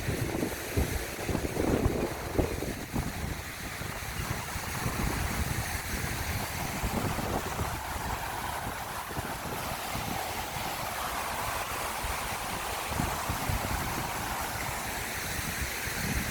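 Wind buffeting the microphone outdoors: an uneven low rumble, gustiest in the first few seconds, over a steady rushing hiss.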